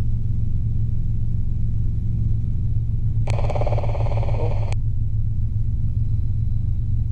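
Robinson R22 helicopter in cruise flight, its engine and rotor making a steady low drone in the cabin. About three seconds in, a short crackly burst, about a second and a half long, cuts in and out sharply over the drone.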